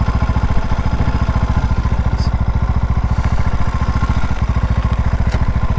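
A small Herald motorcycle's engine running steadily with an even, rapid low beat.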